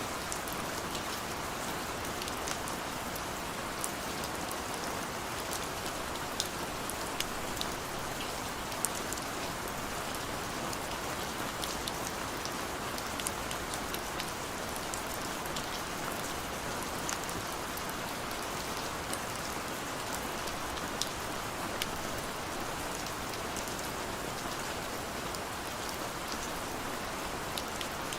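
Steady rain falling, an even hiss with scattered sharp ticks of individual drops hitting hard surfaces.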